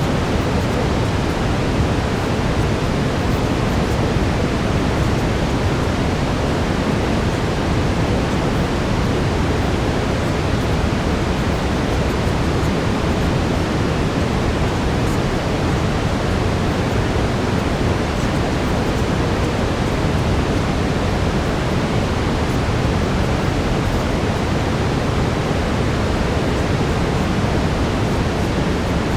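Steady brown noise: an even, deep rushing hiss, heaviest in the low end and without change.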